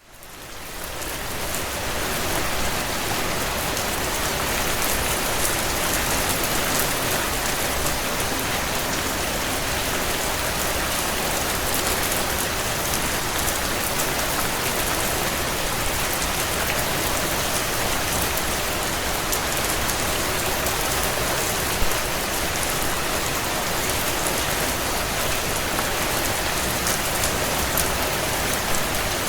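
Heavy rain falling on a tin roof, a steady dense patter of drops that fades in over the first couple of seconds.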